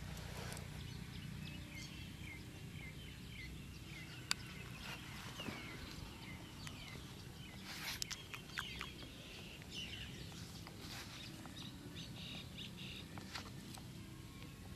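Outdoor ambience with a bird calling: a run of short chirps repeated about two or three times a second early on, then scattered birdsong later, over a low steady background rumble. A sharp click sounds about four seconds in, and a few fainter clicks follow around eight seconds.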